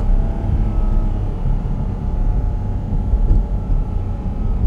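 Porsche 718 Cayman GT4 RS's 4.0-litre flat-six running at a steady, even pitch while the car drives along, under a heavy low road rumble.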